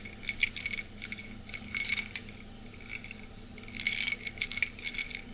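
Ice cubes clinking against a glass, with a ringing high tone after each hit. The clinks come in bursts, around two seconds in and again a little before the four-second mark.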